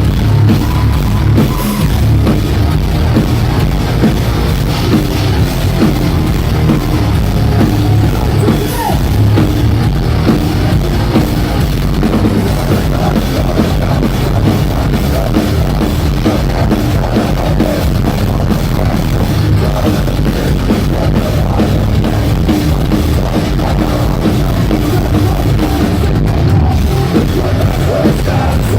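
Live metalcore band playing loud, dense heavy music with a pounding drum kit and strong low end.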